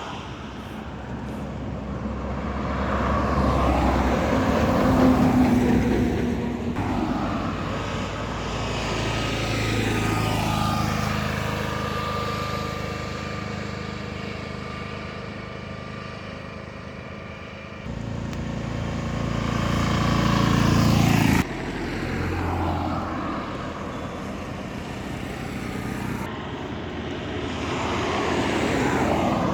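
Highway traffic: buses and trucks passing at speed one after another, each rising and falling as it goes by, over a steady engine drone. The sound changes abruptly twice in the middle.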